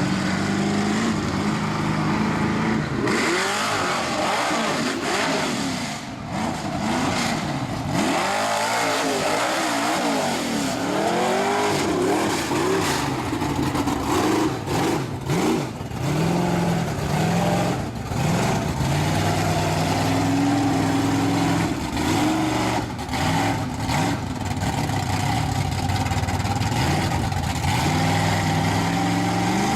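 Mega truck engine revving hard over and over, its pitch sweeping up and falling back many times, with a few short stretches of steady running in between.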